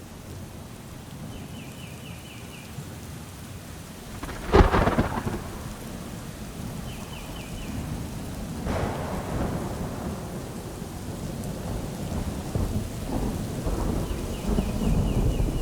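Steady rain falling in a thunderstorm, with a sharp, loud thunderclap a few seconds in. A softer clap follows about four seconds later, and rolling low thunder builds near the end. Three times, a bird gives a quick run of five or six high chirps.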